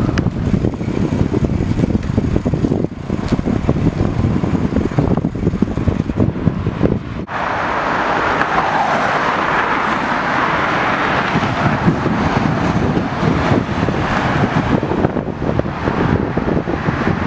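Wind buffeting the microphone of a camera carried on a moving bicycle, a fluttering low rumble, with road noise under it. About seven seconds in the rumble drops off and a steady hiss takes over.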